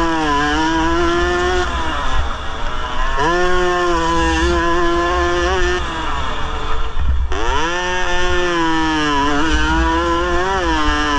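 Yamaha RX 115 two-stroke single-cylinder motorcycle engine racing on a dirt track, heard from on board. It revs high under full throttle in three pulls, with a brief throttle lift about two seconds in and a deeper drop around six to seven seconds in before it winds up again.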